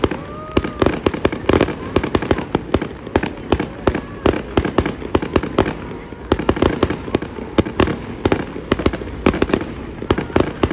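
Fireworks display going off in a rapid, unbroken barrage of sharp cracks and bangs, several a second.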